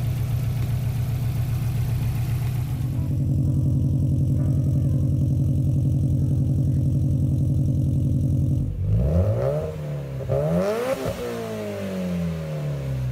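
Subaru STI flat-four with unequal-length headers idling with a steady, pulsing boxer rumble. About nine seconds in it gives way to a Subaru Impreza WRX flat-four with equal-length headers being revved up and down, with no rumble.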